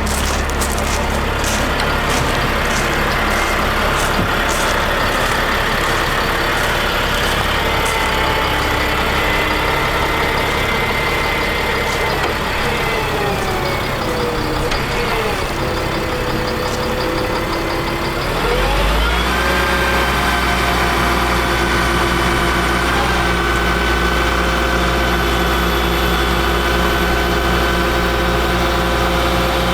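Caterpillar C7 diesel engine of a Ford F750 truck running steadily. Its pitch sags for a few seconds past the middle, then rises quickly about two-thirds of the way through and holds steady at a higher engine speed.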